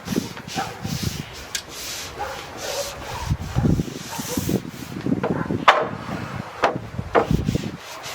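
A brush spreading oil over European larch planks: irregular rubbing strokes of the bristles across the wood grain. A few sharp knocks or clicks, the loudest about halfway through, come between the strokes.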